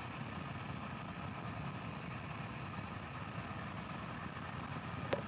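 Steady background noise with a faint hum, broken by a single sharp click near the end.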